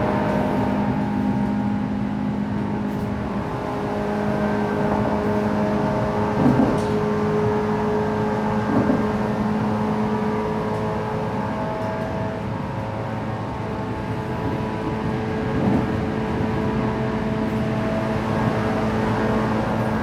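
Cabin running sound of a JR West 117 series electric train: a steady hum and whine from the traction motors and gears over the rumble of wheels on rail, with a few short knocks.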